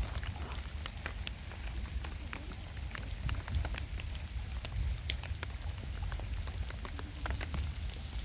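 Heavy rain falling, with many irregular sharp drop ticks over a steady hiss and a low rumble underneath.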